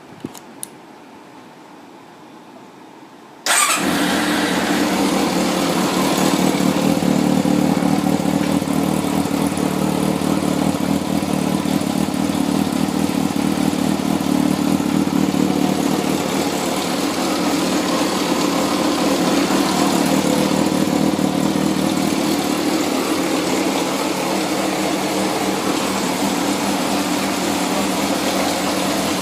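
Yamaha XJR400R's air-cooled inline-four, fitted with a Yoshimura titanium-carbon aftermarket muffler, starting about three and a half seconds in and then idling steadily. Two short clicks come just before.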